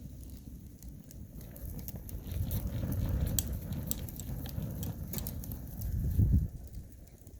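Wood fire in a Solo Stove crackling with scattered sharp pops. A low rumble swells about two seconds in and cuts off suddenly near the end.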